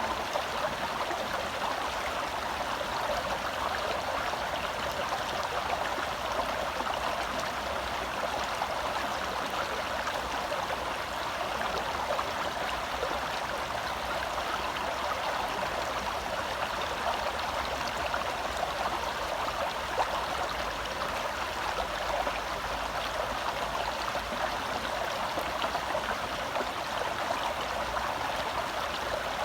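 A forest stream flowing and burbling over rocks, a steady rush of water.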